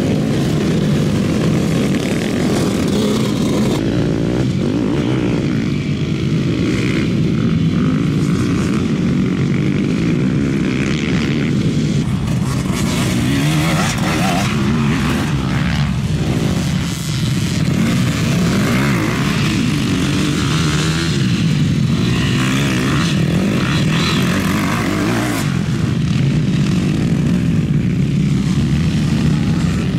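Several motocross motorcycle engines racing together, their pitches rising and falling as the riders accelerate and shift.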